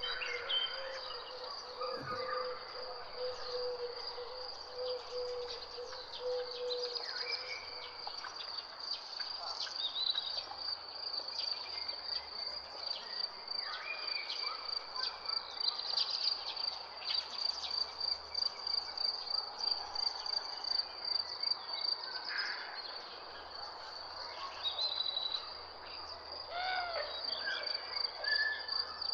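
Outdoor nature soundscape: an insect trilling steadily in a high pulsing tone, with scattered short bird chirps and calls throughout. A low held tone sounds for the first seven seconds or so.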